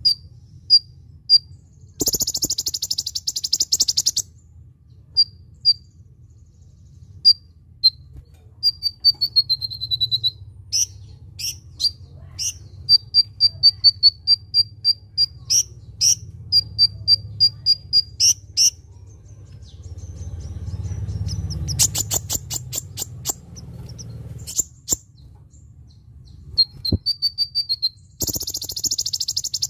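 Kolibri ninja sunbird calling: thin high chips and runs of quick repeated notes, with a short falling trill. Loud buzzy rattling bursts come about two seconds in and again near the end.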